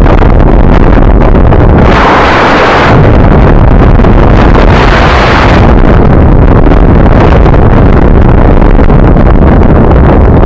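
Heavy wind buffeting on the microphone of a camera riding along on a moving bicycle, distorted and very loud, with two louder hissing surges, one about two seconds in and one about four and a half seconds in.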